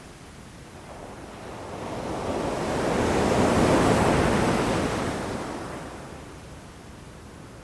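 Ocean waves breaking against rocks: one wave swells up, peaks about halfway through and washes back out, its noise spread from low rumble up to hiss.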